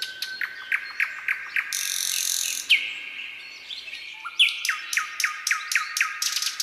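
Songbirds singing: runs of clear, downward-slurred notes repeated about four times a second, broken by a loud hissy buzz about two seconds in. A rapid dry rattle of clicks comes in near the end.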